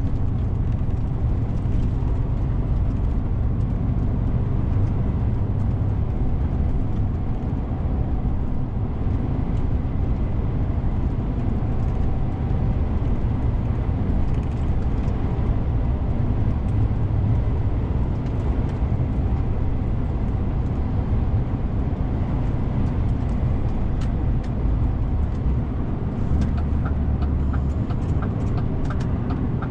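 DAF CF 450 truck's straight-six diesel engine running steadily under way, with a low rumble of engine and road noise. A short run of evenly spaced light ticks comes near the end.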